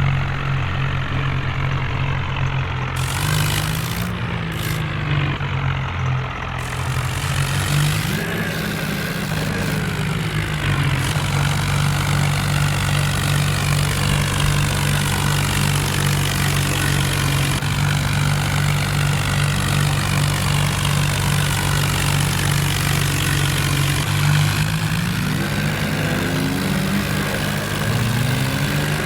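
Tractor diesel engine running steadily, its pitch rising and falling back a few times.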